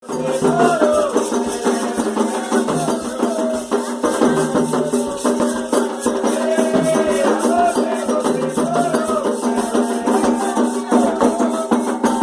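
Afro-Brazilian Candomblé ritual music: a sung melody over a fast, continuous shaking of rattles and hand percussion.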